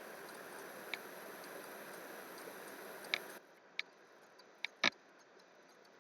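A few scattered sharp clicks over a steady background hiss. The hiss drops away about three and a half seconds in, and two clicks come close together near five seconds.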